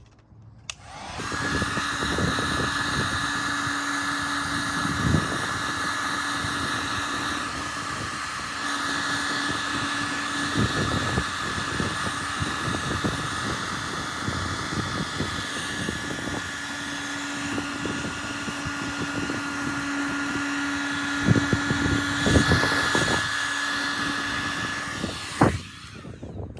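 Heat gun running steadily, a rush of air with a steady whine, heating vinyl wrap to soften it. It switches on about a second in and cuts off near the end.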